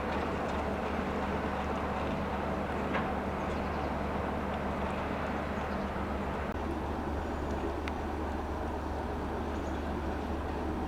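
Class 33 diesel locomotive's Sulzer eight-cylinder engine idling steadily, with a couple of faint clicks.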